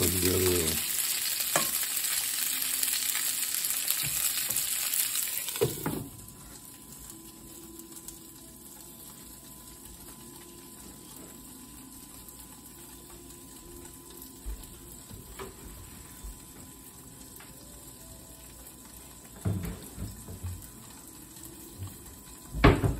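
Boiled pelmeni sizzling in vegetable oil and butter in a skillet while being stirred with a wooden spatula. About six seconds in there is a knock and the sizzle abruptly falls to a faint sound, as a glass lid goes on the pan. A few soft knocks follow later.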